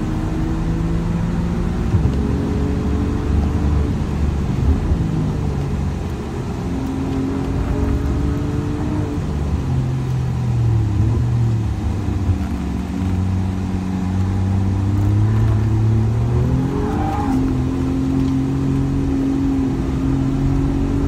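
Alfa Romeo Giulia Quadrifoglio's twin-turbo V6 heard from inside the cabin at track pace. The engine note steps up and down with gear changes and throttle as the car accelerates and slows for corners, with a quick rise in pitch late on before it settles.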